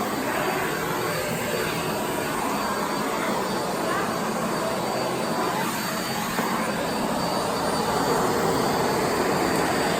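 Miele Blizzard CX1 bagless cylinder vacuum cleaner running steadily at full suction, a constant even whoosh of its motor and airflow.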